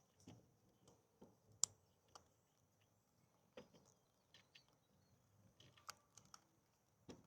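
Near silence broken by scattered faint clicks and light knocks at uneven intervals, the sharpest about a second and a half in.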